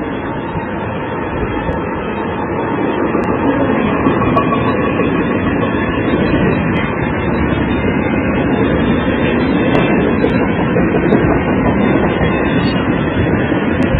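A train going past the trackside camera, a steady rumble that grows a little louder over the first few seconds and then holds.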